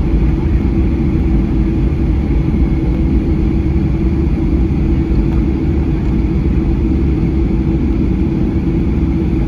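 Boeing 737 cabin noise while taxiing: a steady, loud low rumble from the engines at idle, with a steady hum over it, heard from inside the cabin.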